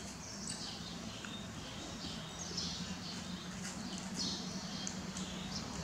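Small birds chirping, a string of short high chirps over a steady low hum.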